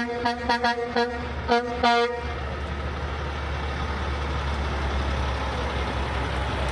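A truck's horn sounding a rapid series of short toots for about two seconds, then the steady low rumble of a truck engine as it passes.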